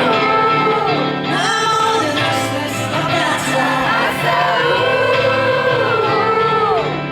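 Audience singing a song's part together over live backing music in a large hall, a singalong being rehearsed on the performer's cue.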